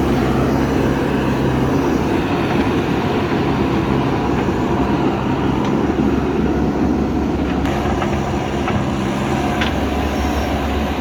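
JCB backhoe loader's diesel engine running steadily under work load, a low continuous hum.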